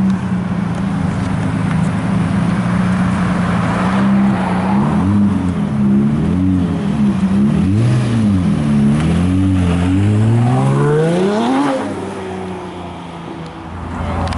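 Lamborghini Murciélago's V12 idling, then revving in short rises and falls as it pulls away, and finally accelerating with one long rising rev that drops away about twelve seconds in.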